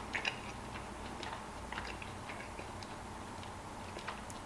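Faint chewing of a dry mouthful: scattered soft mouth clicks over a low steady hum.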